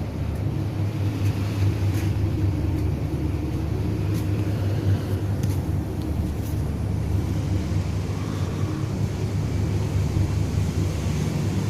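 Steady low rumble of a car ferry's engines, with a few faint clicks.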